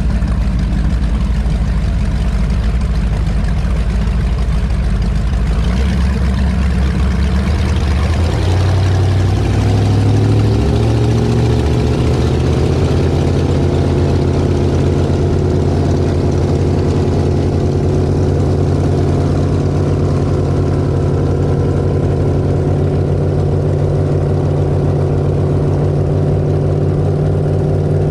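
Twin V8 engines of an Avanti 33 powerboat running, rising in pitch from about eight seconds in as the boat speeds up, then holding a steady higher note.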